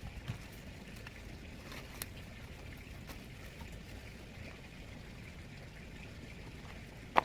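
Outdoor ambience with a steady low rumble of wind on the microphone and a few faint clicks, then one sharp knock near the end.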